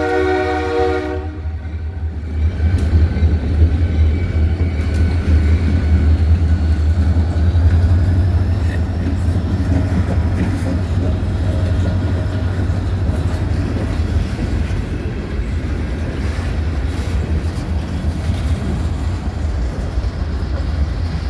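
A diesel freight locomotive's air horn sounds and cuts off about a second in. The trailing Grand Elk SD40M-2 diesel locomotives then rumble past, loudest a few seconds in, followed by the steady rolling of boxcars with some wheel clicks.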